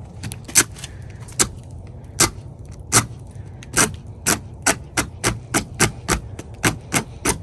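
A lighter clicked over and over, sharp single clicks that come faster and faster, from under one a second to about three a second.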